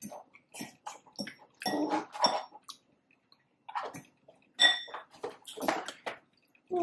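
Close-miked eating sounds: wet chewing and mouth smacks in irregular short bursts, with brief quiet gaps between them.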